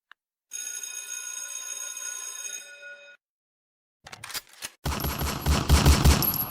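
Two sound effects in a row: a ringing, bell-like tone held for about two and a half seconds, then, after a short silence, a loud burst of rapid automatic gunfire starting near the end.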